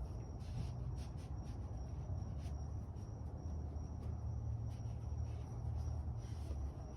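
Insects trilling steadily at a high pitch over a low rumble, with a few faint clicks scattered through.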